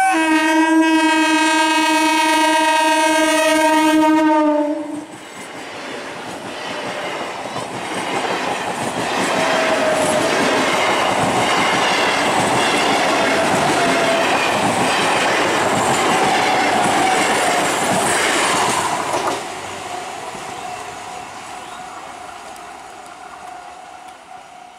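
Medha EMU local train's horn sounding one long blast of about four and a half seconds as it approaches. The train then runs past with wheels clattering over the rail joints, and the noise drops off sharply about nineteen seconds in and fades as it moves away.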